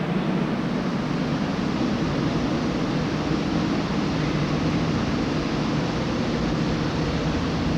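Subway work train running on the track, a steady noise heavy in the low-middle range that steps up in level at the start and then holds.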